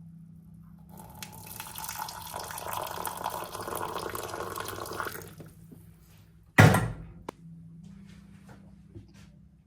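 Water running from a tap for about four seconds, then stopping, followed a second later by a single loud knock and a few light clicks. A faint steady hum sits underneath.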